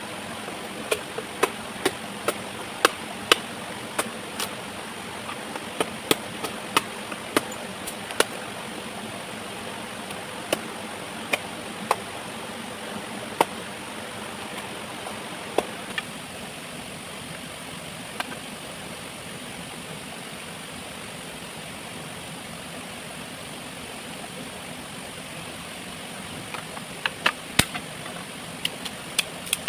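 Steady rush of a waterfall, with irregular sharp knocks and clicks on top: a quick run of them over the first half and a small cluster near the end.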